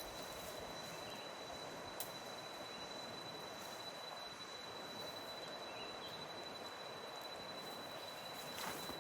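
Rainforest ambience: a steady hiss with a thin, steady high-pitched whine, broken by a sharp click about two seconds in and another near the end.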